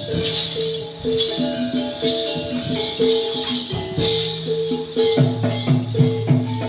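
Music for the Gedruk dance: repeated pitched gamelan-style notes in a steady melodic pattern, with bells jingling in rhythm over it.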